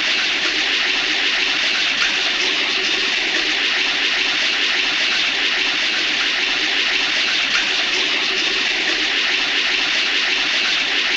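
A steady, loud rushing sound like running or gushing water, held without a break and cut off abruptly. It comes from the vintage Hanna-Barbera cartoon sound-effects library.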